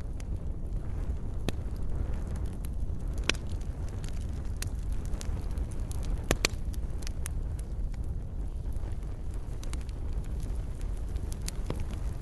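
Wood fire burning in a fireplace, with a steady low rumble of flames and scattered sharp crackles and pops, the loudest pops about three and six seconds in.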